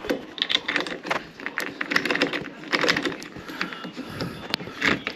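Door latch and knob hardware clicking and rattling in quick, irregular knocks as it is handled and fitted into the door.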